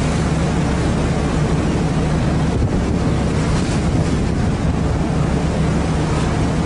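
Fishing boat's engine running steadily with a low hum, with wind on the microphone.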